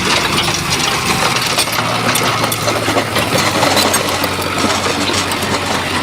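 Shantui bulldozer's diesel engine running steadily, with frequent sharp clinks and clatter over it.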